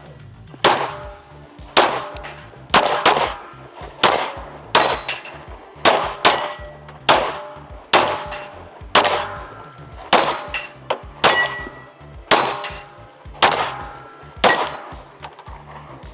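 A fast string of gunshots at steel targets, about two dozen shots half a second to a second apart, many followed by the brief ring of a struck steel plate.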